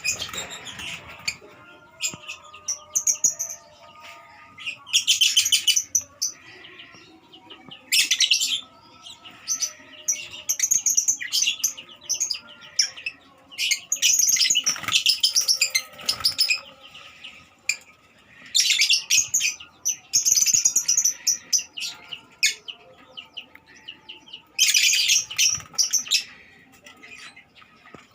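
Lovebirds chattering: bursts of rapid, high-pitched chirps, each about a second long, coming again every few seconds, with short clicks between.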